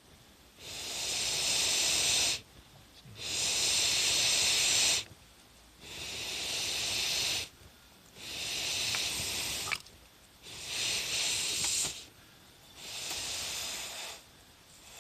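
Someone blowing air into a campfire in six long breaths, each a hissing rush of about two seconds, with short pauses between them for drawing in breath. A few faint pops from the fire can be heard near the middle.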